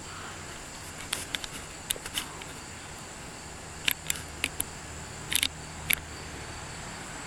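Burning carbon in a two-stroke lawn mower muffler giving off scattered sharp crackles and ticks at irregular moments, about eight in all, as the carbon heats and flakes off, over a steady low hum.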